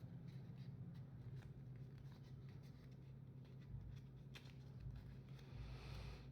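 Faint rustling and creasing of paper being handled and folded, with a few small ticks and one sharper click about four and a half seconds in, over a steady low hum.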